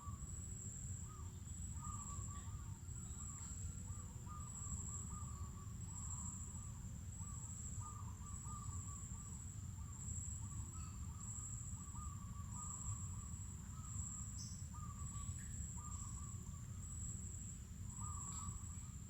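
Mangrove forest ambience: insects shrilling in one continuous high-pitched, slightly pulsing tone, while birds call over and over in short chattering notes. A low steady rumble of background noise runs underneath.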